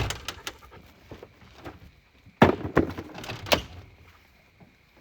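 Pieces of firewood knocking and clattering as they are dropped onto a campfire, a few knocks at first, then a louder run of several knocks about two and a half seconds in.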